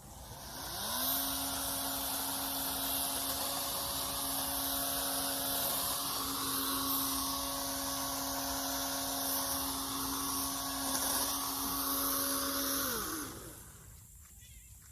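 Toro electric chainsaw running: the motor spins up with a rising whine, runs steadily for about twelve seconds, then winds down near the end.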